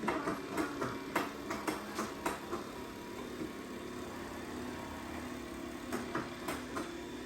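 Dreame X40 Ultra robot vacuum running during a cleaning run, a steady hum. A quick series of clicks and knocks comes in the first couple of seconds, and a few more about six seconds in.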